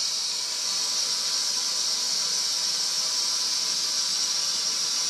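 Steady hiss of water rushing under pressure through the steam boiler's piping as the boiler is filled and flushed.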